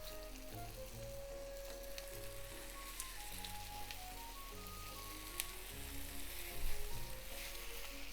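Chicken thigh pieces frying skin side down in hot vegetable oil, a steady sizzle with a few sharp pops.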